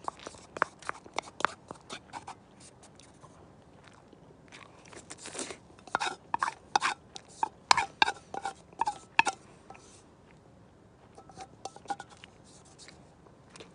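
A person eating close to the microphone: crunching bites and chewing, in a run of sharp clicks that comes thickest between about six and nine seconds in.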